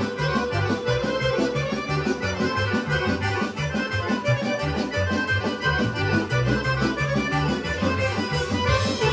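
Serbian kolo dance medley played by an accordion-led folk band, with a fast, steady beat and a moving bass line.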